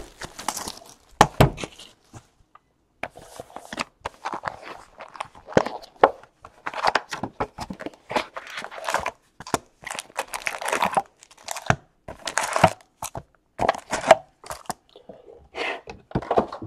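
Foil trading-card pack wrappers crinkling and tearing, with cards and cardboard handled in short, irregular bursts.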